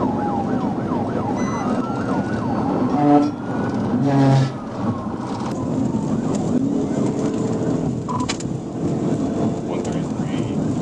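Police cruiser siren sweeping up and down continuously, with two short, loud horn blasts about three and four seconds in.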